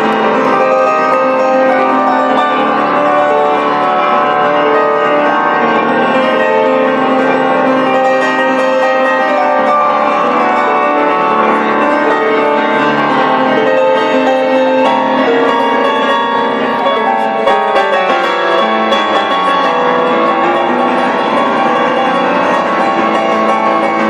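Live rock band music with a piano to the fore, playing loud and continuous.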